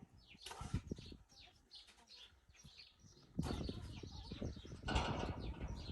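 Small birds chirping, many short high falling notes, with louder rustling noise starting about three and a half seconds in and again near five seconds.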